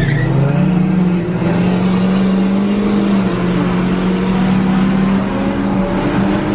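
Vehicle engine under hard acceleration: its note climbs over the first second or so, then holds high and steady over road noise.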